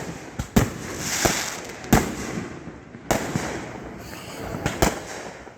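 Aerial fireworks bursting close by: about five sharp bangs roughly a second apart, with crackling between them.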